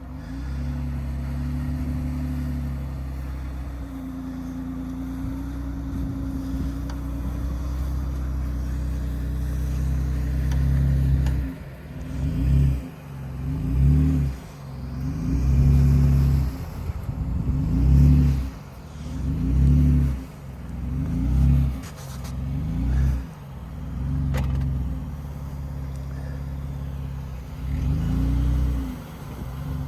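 Off-road Jeep engine pulling steadily under load through avalanche snow, then revved up and down repeatedly, a surge roughly every one and a half to two seconds from about a third of the way in, as the throttle is worked to climb over the snow debris.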